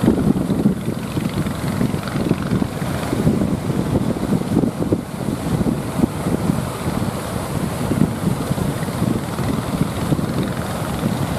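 Strong wind buffeting the microphone in a gusty low rumble, with surf washing underneath.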